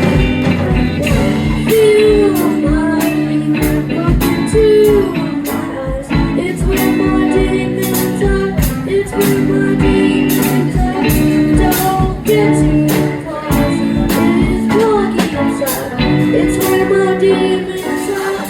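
Live band playing a song: a singer over guitar, bass and a steady drumbeat.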